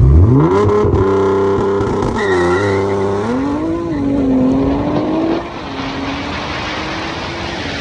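Big-turbo Nissan GT-R R35's twin-turbo V6 accelerating hard: the revs climb quickly, hold high, dip and climb again a couple of times as it shifts. About five seconds in it eases off to a quieter steady drone under rushing wind and road noise.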